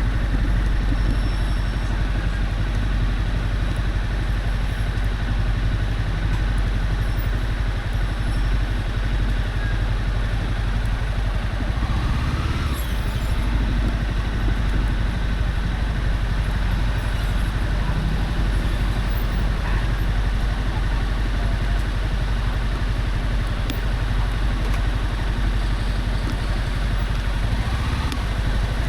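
Honda CB300F motorcycle on the move at a steady pace, the engine running under steady road and wind noise.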